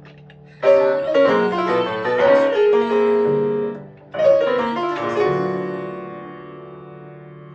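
Piano playing two phrases of a K-pop song arrangement: each starts with a quick run of struck notes, about half a second and about four seconds in, then dies away on held, ringing notes.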